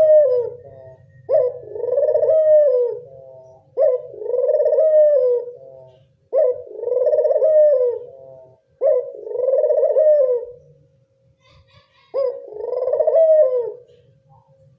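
Local puter dove cooing over and over, five calls about every two and a half seconds, each a short sharp opening note followed by a longer rolling coo that rises and falls; the gap before the last call is longer. A faint steady hum runs underneath.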